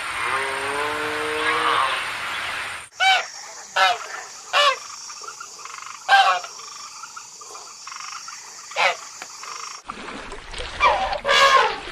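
A run of short animal calls, about five of them spread over several seconds, each sliding quickly downward in pitch, over a steady high-pitched hiss like a chorus of insects or frogs.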